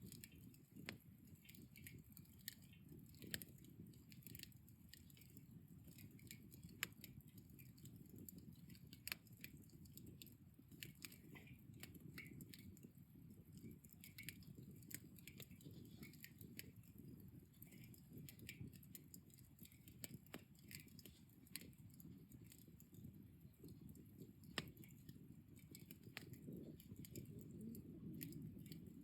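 Wood fire burned down to embers, crackling faintly with scattered sharp pops over a low steady background rumble.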